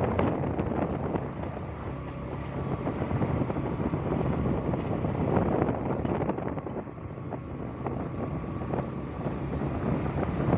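Wind buffeting the microphone over the steady hum of a motor, as when recording from a moving vehicle.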